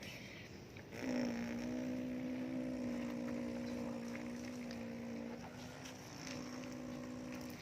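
Electric motor of a radio-controlled model excavator running with a steady whine, starting about a second in and easing off briefly about two-thirds of the way through before picking up again.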